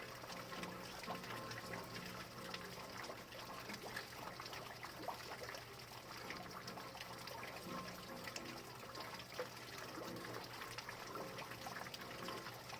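Steady rain falling, with many separate drops ticking and dripping over an even hiss.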